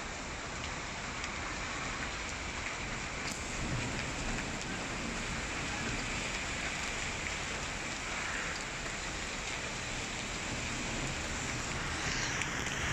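Heavy rain mixed with hail pelting down, a steady hiss with scattered sharp ticks.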